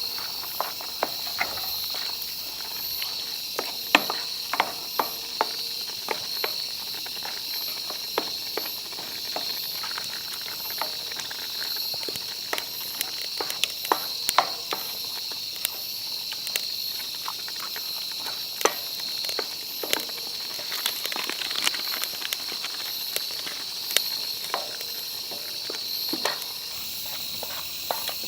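Wood campfire crackling with irregular sharp pops, over a steady high-pitched chorus of insects chirping.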